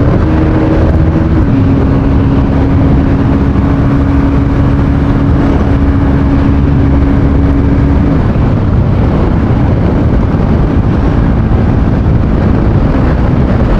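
Bajaj Pulsar NS200 motorcycle engine running at a steady high speed while riding, under loud wind rush on the microphone. The engine note holds one steady pitch, then fades into the wind about eight seconds in.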